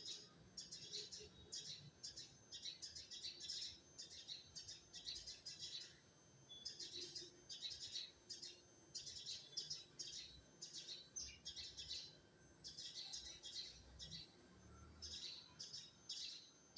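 A small bird chirping in repeated bouts of rapid, high chirps, each bout lasting about a second with short pauses between.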